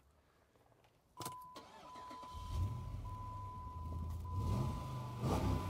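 Jeep Grand Cherokee's 6.1-litre Hemi V8 starting: a click, then about a second later the engine catches with a short rise in revs and settles into a deep idle, with another brief rev near the end. A steady high warning beep sounds from the click onward.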